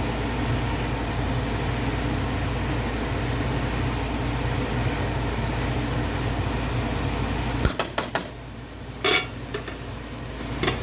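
A steady low machine hum stops suddenly about three-quarters of the way through, followed by a few sharp clinks and knocks of a utensil against cookware.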